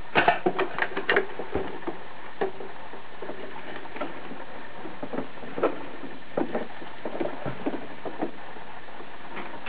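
Plastic parts of a Bruder toy garbage truck being worked by hand: a quick run of sharp clicks in the first second, then scattered single clicks and knocks a second or so apart.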